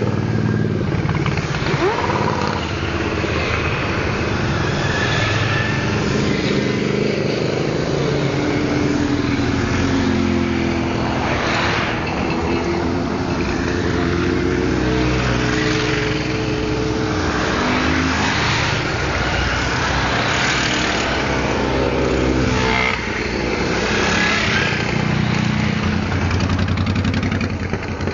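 Many motorcycles of mixed kinds riding past together, their engines running and revving, several overlapping engine notes that rise and fall.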